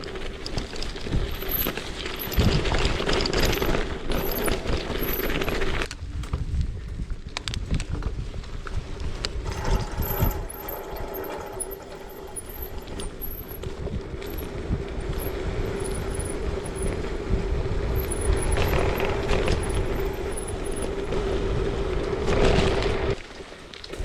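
Gravel bike being ridden: tyre rumble on a rough surface with wind buffeting the microphone and a steady hum. The sound breaks off sharply about six seconds in and again near the end.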